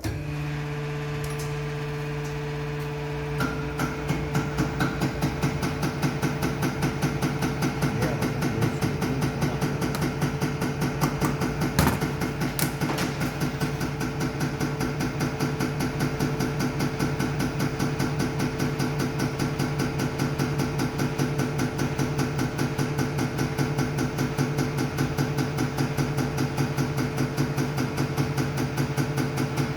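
Diesel injection test bench starting up suddenly and running a Mercedes Actros unit pump: a steady motor hum, joined about three and a half seconds in by a fast, even ticking of the pump working.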